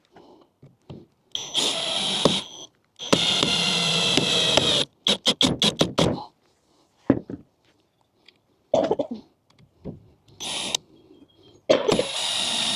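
Power drill running in several bursts of a second or two, with a quick run of short trigger blips in the middle, driving fasteners.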